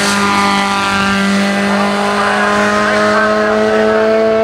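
Suzuki Swift race car's four-cylinder engine running hard at high revs as it drives past. The pitch holds steady, then climbs slowly through the second half as the car accelerates away.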